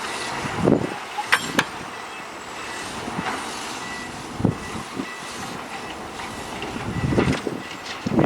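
Heavy construction machinery, a bulldozer or dump truck, running steadily, with a couple of sharp knocks about a second and a half in.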